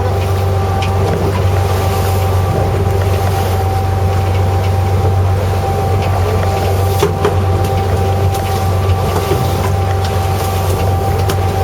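Fishing boat's engine running steadily, a constant low hum with a steady higher tone above it and scattered light clicks and knocks.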